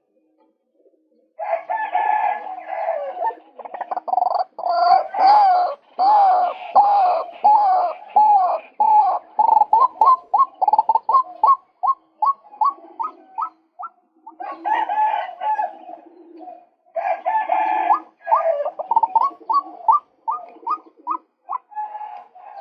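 Male white-breasted waterhen calling in three loud bouts. Each bout is a dense run of harsh repeated notes that speeds up into a string of quick rising notes, about three a second, with short pauses between bouts.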